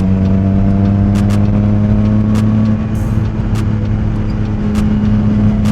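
Motorcycle engine running at a steady cruising speed, its pitch rising slightly in the first few seconds and then holding, with road and wind noise.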